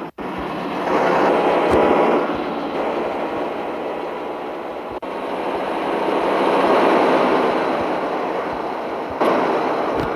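Mitsubishi Fuso truck driving: a steady rush of engine and road noise that swells twice, broken by abrupt cuts just after the start and about halfway through.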